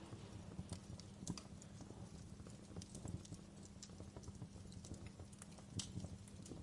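Fire crackling in a stone fireplace: irregular small pops and snaps over a steady low rumble of burning, with two sharper pops, about a second in and near the end.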